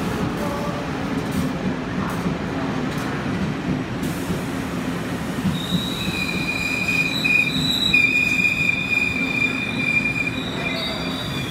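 Passenger train rolling into the station alongside the platform, with a low rumble of wheels on rail. About five and a half seconds in, a high, steady brake squeal in two tones sets in as the train slows.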